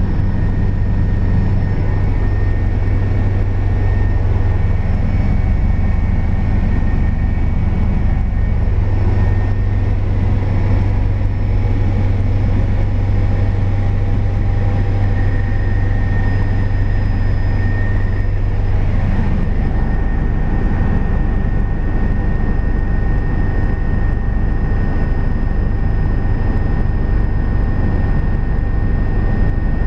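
Helicopter rotor and engine noise heard from inside the cabin: a loud, steady low drone with a faint whine above it. The low drone shifts down slightly about two-thirds of the way through.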